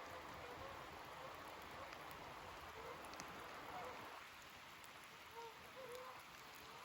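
Steady rain falling at the beach, an even patter, with a few faint short calls in the second half.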